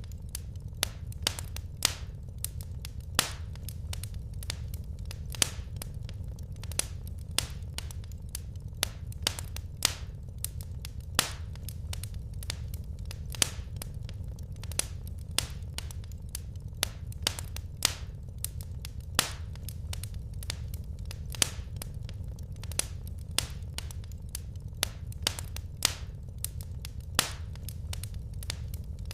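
Wood fire crackling in a fireplace: irregular sharp pops and snaps, a few a second, with louder pops every few seconds over a steady low rumble of the flames.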